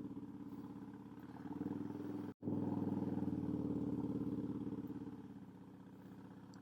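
Harley-Davidson Dyna Super Glide's V-twin engine running under way, a steady pulsing engine note. It cuts out abruptly for an instant about two seconds in, and gets quieter over the last second or so.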